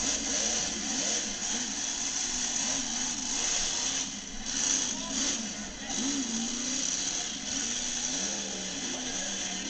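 Crowd chatter mixed with a monster truck's engine running, its pitch wavering up and down.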